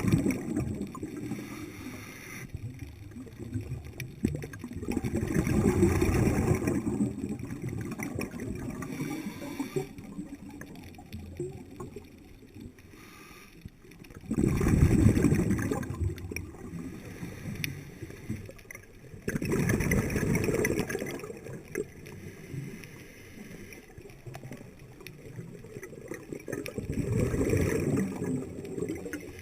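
Underwater bubbling and rushing from a scuba diver's regulator exhaling, in bursts every five to eight seconds with the breathing.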